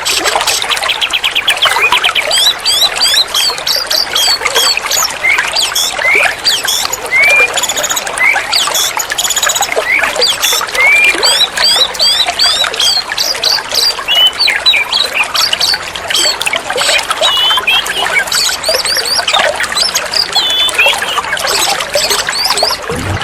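Oriental magpie-robin (kacer) singing a fast, varied run of chirps and short rising and falling whistles, over a constant rush of running water.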